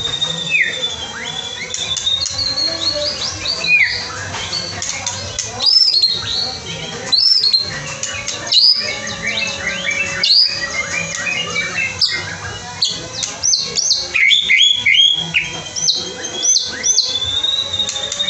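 Several caged songbirds chirping and singing at once, a dense overlapping mix of short sharp chirps and whistles, with a long steady whistled note near the start and again near the end.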